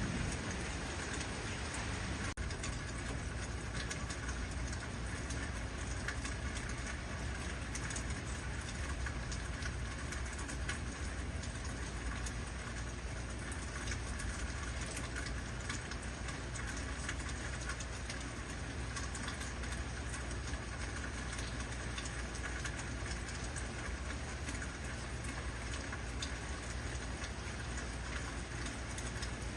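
Heavy rain falling steadily, a dense patter of drops over a constant low rumble.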